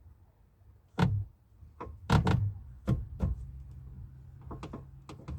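A series of sharp knocks and clicks, a quick cluster near the end, from the car's window regulator mechanism and door parts being handled and fitted back inside the door.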